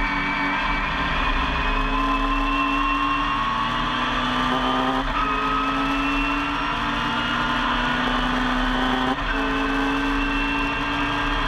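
Classic Mini's A-series four-cylinder race engine heard from inside the cabin, pulling hard with its note rising steadily. It drops sharply at an upshift about five seconds in and again at a second upshift near nine seconds, climbing again after each.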